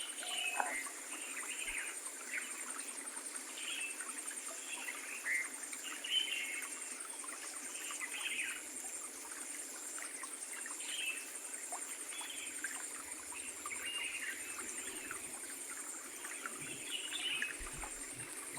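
Birds chirping again and again in short calls over a steady high-pitched hiss, with faint trickling water from a creek.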